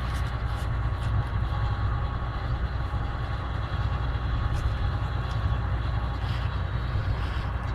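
John Deere 9660 STS combine running steadily: diesel engine and threshing machinery making a constant low hum with a few steady whining tones.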